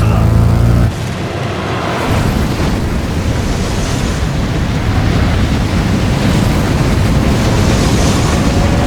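Action-film sound effects: a heavy, low engine drone cuts off about a second in and gives way to a loud, dense rumble with swelling whooshes.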